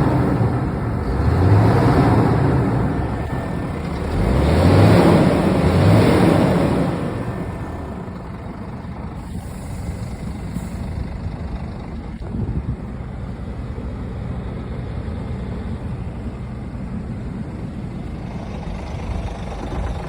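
Scania R450 truck's diesel engine revved in a few short bursts, then settling to a steady idle about eight seconds in.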